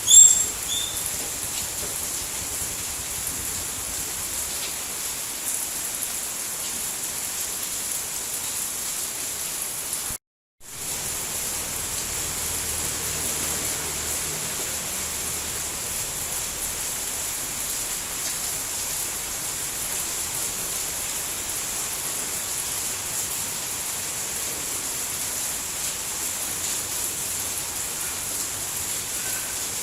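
Steady rain falling, an even hiss strongest in the high range. A few short high chirps sound right at the start, the loudest moment, and about ten seconds in the sound cuts out completely for a split second before the rain returns.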